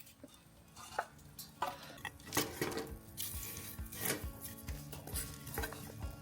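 A series of light clinks and knocks, like small hard objects being handled, with soft music coming in underneath about three seconds in.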